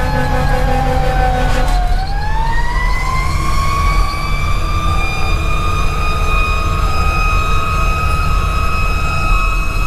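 Fire engine siren heard from the cab. The tone sinks slowly for about two seconds, then rises again and holds at a steady high pitch, over the low, steady running of the 2010 Pierce Velocity's Detroit Series 60 diesel.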